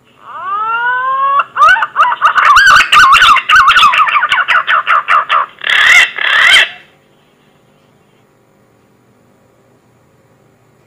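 Green pigeon (punai) whistled song played as a hunting lure: a rising whistle, then a quick run of wavering, warbling notes, ending with two louder notes about six seconds in before it stops. The recording is loud and crackles with clicks.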